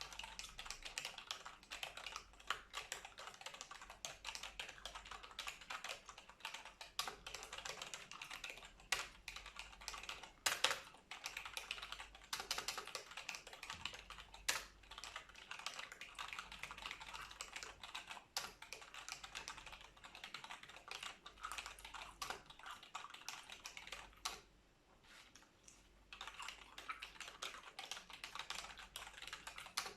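Fast typing on a computer keyboard: dense, irregular key clicks with a few louder single strokes, stopping for a second or two a few seconds before the end.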